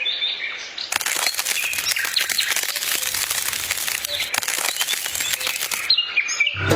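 Small birds chirping in short repeated calls over a dense patter of small clicks and crackles, which stops shortly before the end.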